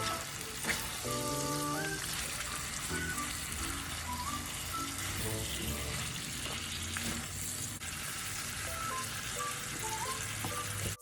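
Chicken and vegetables sizzling steadily as they fry in a skillet, over soft background music.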